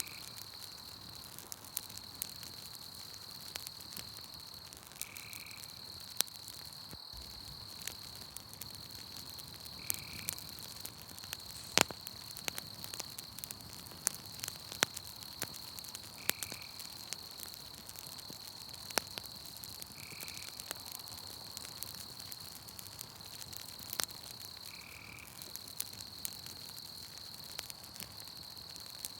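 Campfire crackling with scattered sharp pops under a steady, high night-insect trill. A short call repeats about every five seconds.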